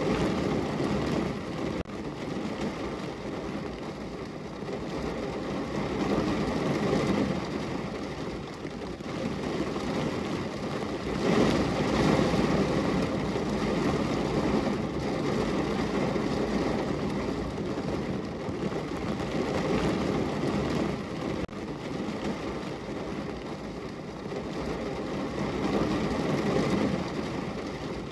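Steady rain falling on a window: a dense, even rushing noise with a low rumble that swells and eases every few seconds, loudest about twelve seconds in.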